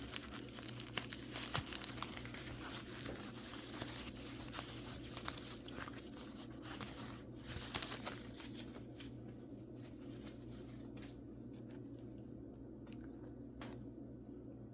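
Packing material crinkling and tearing as mineral specimens are unwrapped by hand. The crinkling is dense for about the first eight seconds, then thins to a few separate crackles near the end.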